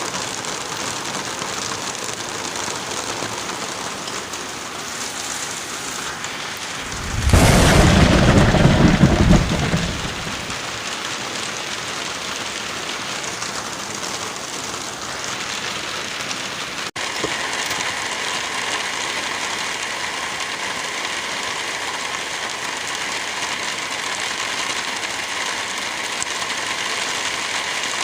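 Wind through forest trees with light rain, a steady rushing hiss. About seven seconds in, a much louder deep rush of noise lasts about three seconds. Near seventeen seconds the sound cuts out for an instant and resumes slightly changed.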